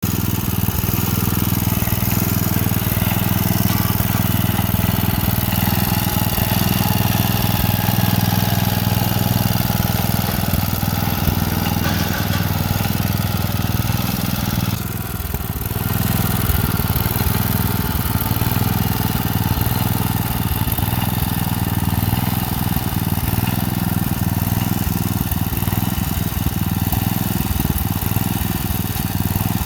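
Snapper Hi-Vac rear-engine riding mower's small engine running steadily as the mower is driven, with a brief dip in level about halfway through.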